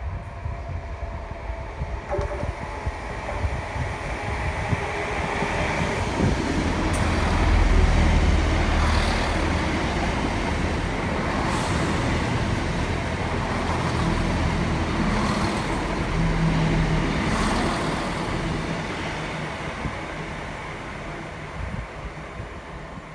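A diesel train passing: a low rumble builds for about eight seconds, stays loud with a few sharp clicks from the wheels on the rail, then fades away.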